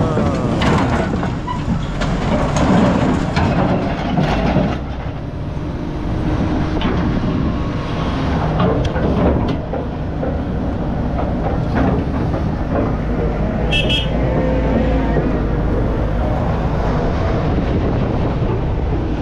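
Heavy diesel machinery running steadily, with scattered metal clanks and creaks from scrap being worked, and a brief high squeal about 14 seconds in.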